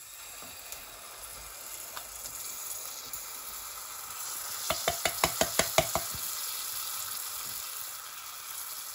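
Baked beans going from a tin into a hot stainless steel saucepan of onions frying in butter, with a steady sizzle. About five seconds in there is a quick run of about eight sharp knocks as the tin is emptied.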